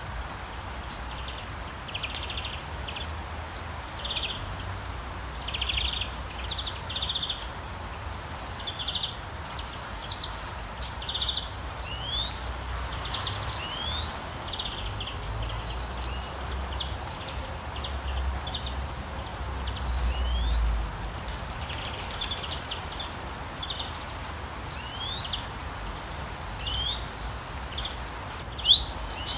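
Birds calling over a steady hiss of rain: repeated short trilled notes and quick rising whistles, with two loud, sharp chirps near the end.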